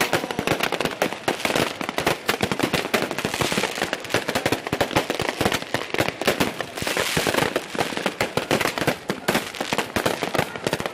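Fireworks going off in a dense, unbroken string of rapid cracks and bangs, several a second.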